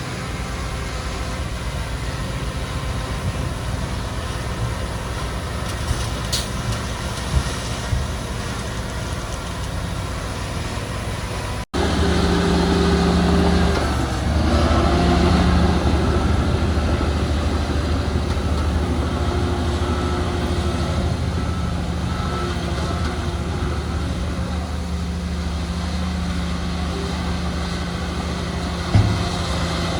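Diesel engines of heavy earthmoving machinery (bulldozer, dump trucks, excavator) running steadily. About twelve seconds in the sound cuts abruptly to a louder, steadier engine hum.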